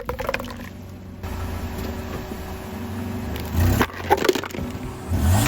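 Brittle objects cracking and splintering under a car tyre: a few snaps at the start, then a burst of cracks about four seconds in, with a low steady hum between.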